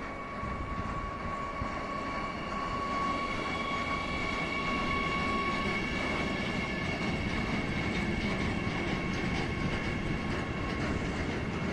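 Freight train of gas tank wagons and open wagons rolling past behind an electric locomotive. A steady rumble of wheels on rail slowly grows louder, over a high steady tone that stops about six seconds in and a still higher tone that runs on.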